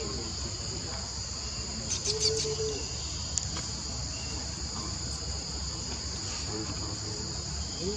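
Steady, high-pitched insect chorus droning without a break, with a brief pitched call and a few clicks about two seconds in.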